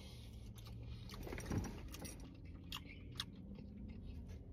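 A man chewing a mouthful of chicken, with a few short, light clicks of a plastic fork against a foam takeout container in the second half.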